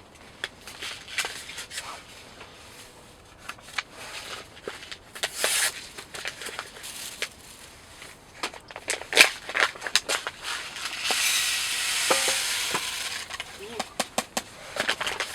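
Handling of cooking gear and food packaging while preparing a bamboo-shoot rice mix: scattered clicks, taps and rustles, with an even hiss lasting about two seconds near the end.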